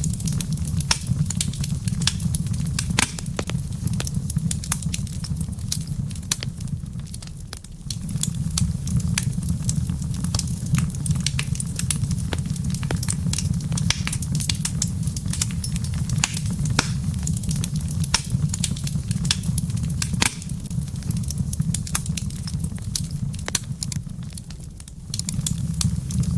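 Wood fire crackling in a fireplace: irregular sharp pops and snaps over a steady low rumble of burning, which dips briefly twice.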